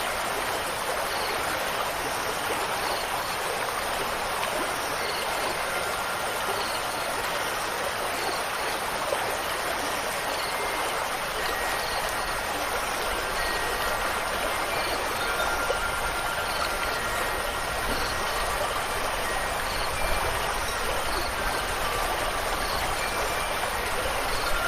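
Steady rushing water with no breaks, with faint ringing wind-chime tones drifting in during the second half.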